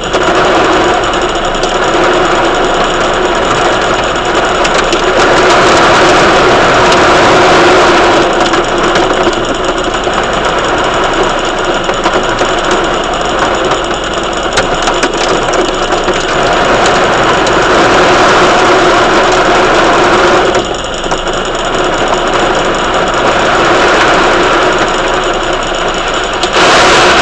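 Heavy thunderstorm rain pouring down in a loud, continuous rush that swells and eases in waves, dropping off suddenly about two-thirds of the way through.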